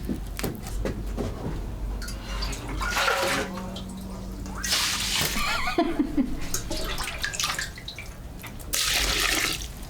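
Water splashing and pouring in three bursts of about a second each, with scattered clicks and knocks between them.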